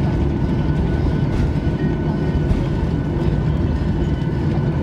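Steady low rumble inside the cabin of a Boeing 737-800 with CFM56-7B engines, rolling along the ground after landing. Wheel rumble and engine noise run together, with a faint steady whine above them.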